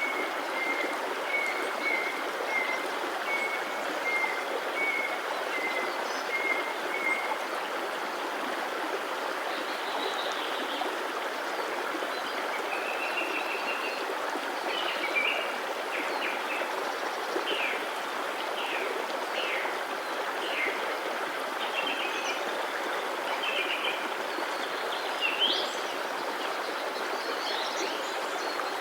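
A stream running with a steady rush of water, and birds calling over it: a row of short, evenly repeated notes for the first several seconds, then assorted chirps and quick sliding calls from about halfway on.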